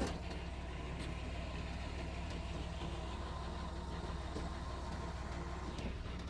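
Mitsubishi crawler bulldozer's diesel engine running steadily at idle.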